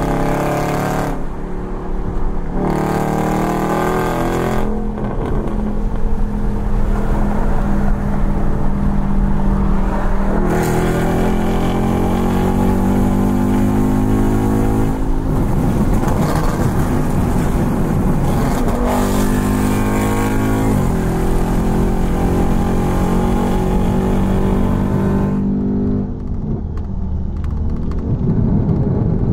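Tuned Dodge Charger Scat Pack's 392 HEMI V8, heard from inside the cabin, accelerating hard again and again, the engine's pitch climbing through each gear and stepping back at each shift. Near the end it comes off the throttle to a lower, quieter drone.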